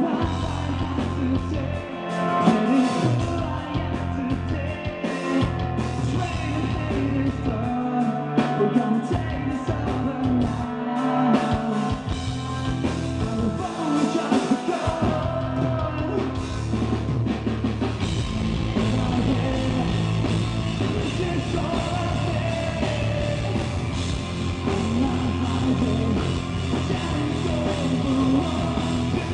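Live metalcore band playing loud rock with singing, drums and distorted guitars. In the first half the bass and kick drop out and slam back in several times, stop-start, before the band settles into a steady full-band section.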